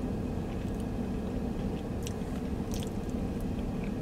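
A person chewing a mouthful of sushi roll with the mouth closed: soft, wet mouth sounds with a few small clicks, over a steady low hum of the vehicle cabin.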